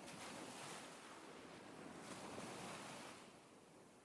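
Faint ocean waves: surf washing in and drawing back in slow swells, two surges in a few seconds.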